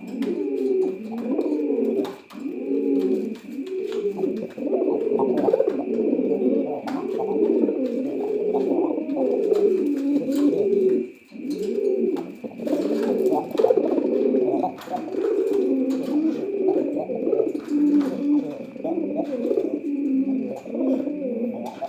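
Pigeons cooing over and over, their low, wavering coos overlapping almost without pause. A faint steady high whine runs underneath.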